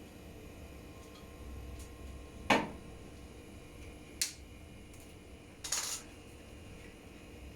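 Isolated metal clinks from small parts or tools being handled on a workbench: a sharp clink about two and a half seconds in, the loudest, a lighter click about a second and a half later, and a short scrape near the end, over a faint steady hum.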